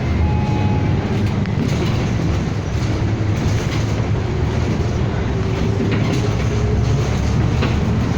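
City bus cabin while driving: a steady low rumble of engine and road noise, with a few faint clicks and rattles.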